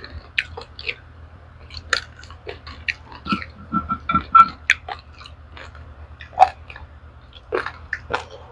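Close-up chewing of dry-roasted raw rice grains: irregular sharp crunches as the hard grains are bitten and ground between the teeth, with a brief pitched mouth sound around the middle.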